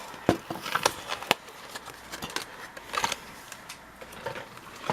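Scattered light clicks and taps of small die-cast toy cars being lifted out of their plastic packaging.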